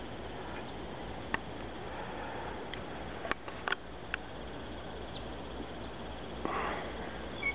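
Quiet outdoor background hiss by a pond, with a few light clicks and a short breathy sniff about six and a half seconds in.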